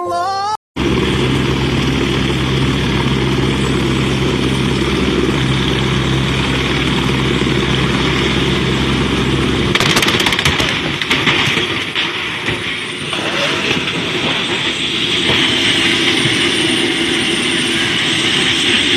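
Vehicle noise: about nine seconds of a steady engine-like hum, then a sudden change to a rougher, noisier rumble with scattered knocks and crackles.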